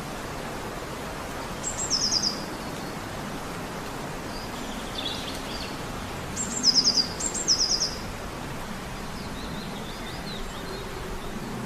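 Outdoor nature ambience: small birds calling in short, rapid, high trills over a steady background hiss. One trill comes about two seconds in and two louder ones come near the middle, with fainter calls in between.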